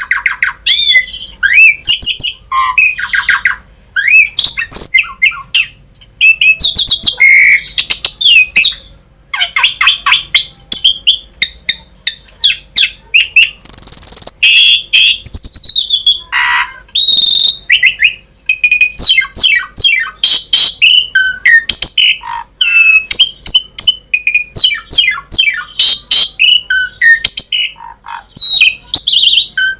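Asian pied starling (jalak suren) singing vigorously: a long, varied run of whistles, harsh squawks, sliding notes and rapid chattering clicks, in phrases separated by short pauses.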